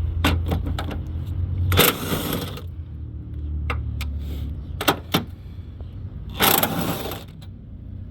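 Socket wrench working a bolt loose on a car's engine mount: scattered metallic clicks and two short rasping bursts, about two seconds in and again past six seconds, over a low hum that drops away partway through.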